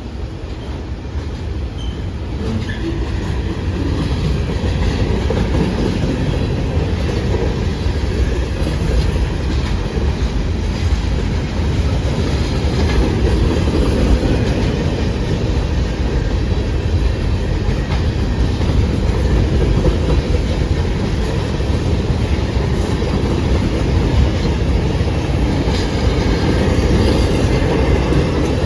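Freight cars of a CSX manifest train rolling past trackside: a steady rumble of steel wheels on rail, with no horn sounding.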